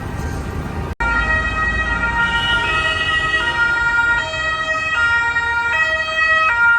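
Two-tone emergency-vehicle siren, alternating between a high and a low note about every three-quarters of a second, coming in after a sudden cut about a second in; before the cut, steady street traffic noise.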